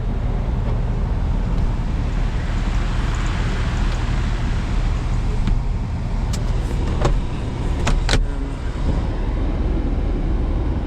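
A 2013 Camaro's 6.2-litre V8 idling steadily. A few sharp clicks come between about six and eight seconds in.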